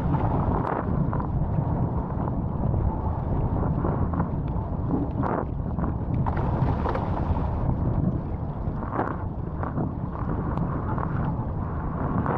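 Strong wind buffeting the camera microphone on a wing foil in about 20 knots of wind, a steady low rumble with rushing water beneath it and a few brief sharp crackles.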